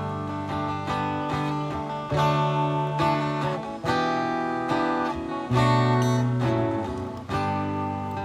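Acoustic guitar strumming chords in a steady song intro, the chord changing every second or two with a fresh strum each time.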